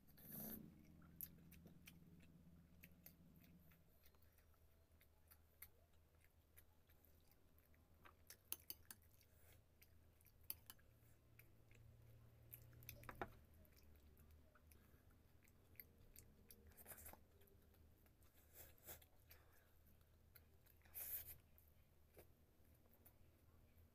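Faint chewing and mouth noises of a person eating rice and fish with his hands, with scattered small clicks and a few short louder bursts over a low steady hum.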